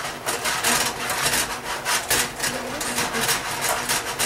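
Spatula scraping and stirring chicken and vegetables around a wok in quick strokes, about three a second.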